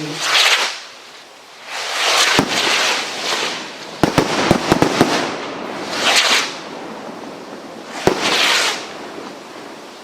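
Firework rockets launching one after another, each going up with a hissing whoosh and bursting with a sharp bang. A quick run of cracks comes about four to five seconds in.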